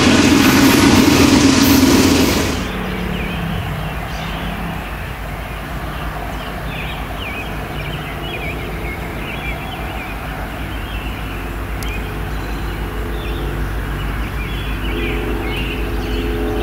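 A passing freight train's wheels on the rails make a loud, steady rush that cuts off about two and a half seconds in. After that an approaching BNSF diesel locomotive hums low and steady, growing louder near the end, with birds chirping.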